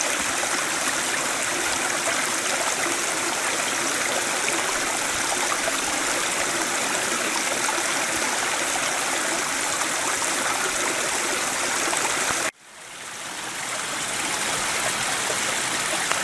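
Steady rush of a stream's running water. It cuts out abruptly about twelve seconds in and swells back up over a couple of seconds.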